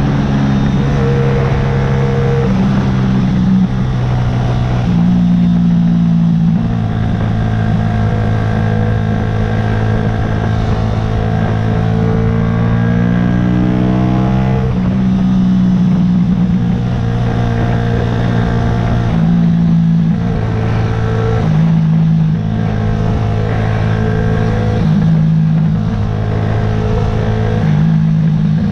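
Yamaha YZF-R125's single-cylinder 125 cc four-stroke engine running while ridden. Its pitch jumps up and down in steps several times, with a slow climb around the middle.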